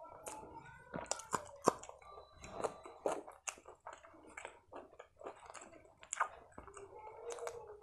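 Close-miked ASMR chewing of a mouthful of Punjabi food, with wet mouth sounds and sharp clicks and crunches at irregular intervals.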